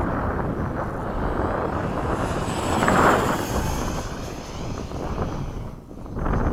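Electric ducted-fan RC F-5 jet making a high-speed pass, its high fan whine swelling about three seconds in and sliding down in pitch as it goes by. Wind buffets the microphone throughout.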